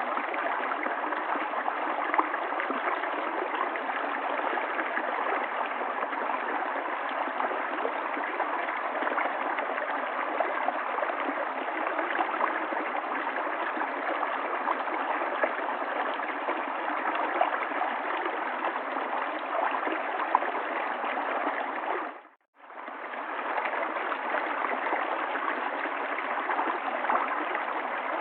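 River water flowing steadily. About 22 seconds in it fades out to a brief silence, then fades back in.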